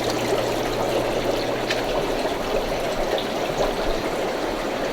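Water trickling and splashing steadily from the filters and overflows of rows of aquarium tanks, with a low steady pump hum under it.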